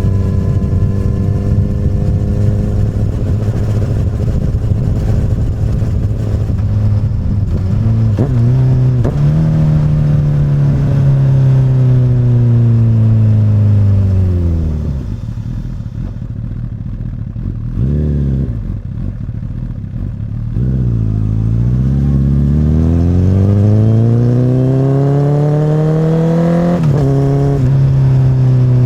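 2008 Honda CBR1000RR's inline-four through an Akrapovic carbon slip-on exhaust, heard while riding. It holds steady revs, then the revs fall away as the throttle closes, with a quick blip while low, then climb steadily again, with a gear change near the end.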